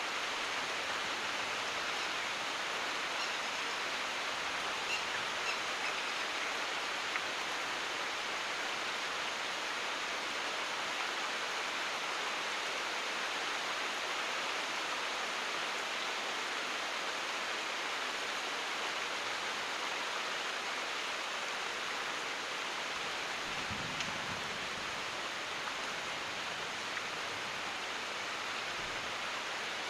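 Steady rain falling, an even hiss with a few faint drip ticks. About three-quarters of the way through, a faint low rumble.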